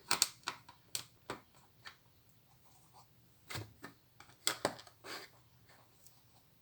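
Plastic Lego pieces clicking and knocking as they are handled and pressed together: irregular clicks in two bunches, with a short pause between.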